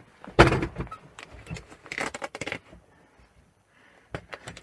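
Handling noise: a heavy knock about half a second in, then clattering, clicks and rattles of things being moved about. A short quiet stretch is followed by a few more clicks near the end.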